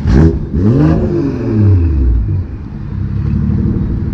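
BMW 340i's B58 turbocharged inline-six, exhaust running through a cattless downpipe with the muffler and resonator deleted, blipped twice in quick succession. The revs climb and then fall away over about two seconds before settling back to a steady idle.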